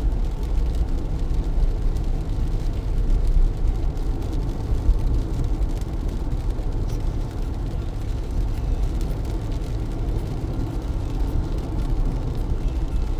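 Car driving through heavy rain on wet city streets: a steady low rumble of tyres and engine mixed with the hiss of rain.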